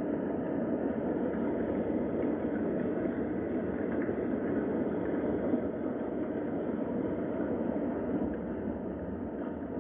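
Steady rain, an even rushing noise with no breaks.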